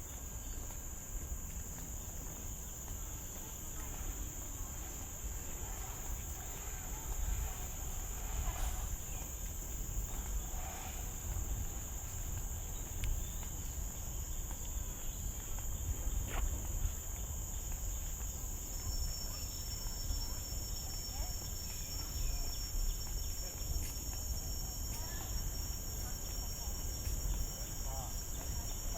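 Steady, high-pitched chorus of forest insects droning without a break, with a second thin, steady tone joining about two-thirds of the way through. A low rumble runs underneath.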